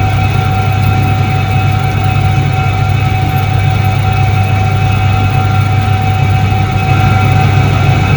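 A 1978 Soviet Iset-3 washing machine running: a steady, loud motor hum with a constant higher tone above it and no breaks.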